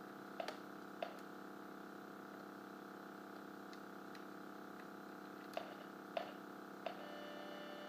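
A handful of light clicks, two near the start and three more about five and a half to seven seconds in, over a faint steady electrical hum. A thin steady tone joins the hum near the end.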